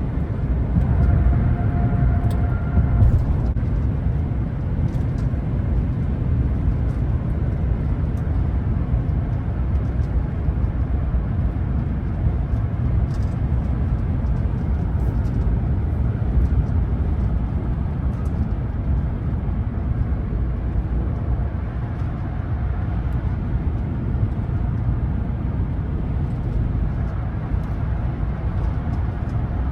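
Steady low rumble of road and engine noise inside the cabin of a 2024 Ram 1500 pickup with a Hemi V8, driving in four-wheel drive. A short steady tone sounds in the first few seconds.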